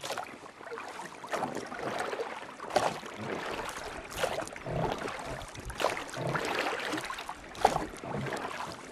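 River water rushing and splashing in irregular surges, with a few sharper splashes.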